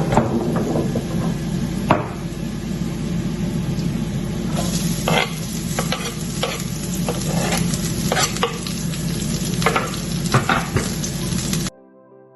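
Garlic and shallot frying in oil in a kawali, a steady sizzle, with a utensil stirring them and clicking and scraping against the pan, the clicks coming thicker in the second half. The sizzle cuts off suddenly near the end, leaving soft background music.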